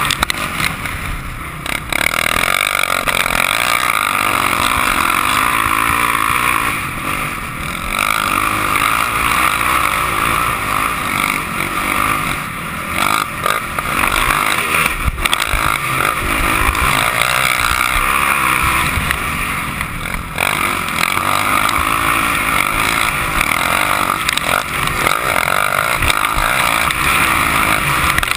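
Motocross motorcycle engine running hard around the track, the revs rising and falling as the throttle is opened and eased off, with brief dips every few seconds.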